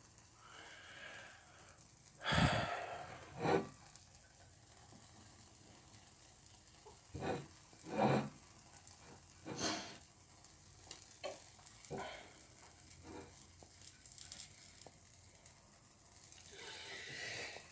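Egg omelette sizzling faintly in a frying pan, broken by a few short, louder sounds of breath or handling, and a drawn-in breath building near the end just before a sneeze.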